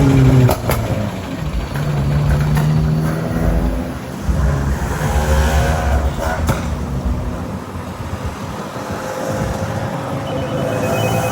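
Car engine accelerating in several rising pulls over road noise. Near the end a phone starts ringing.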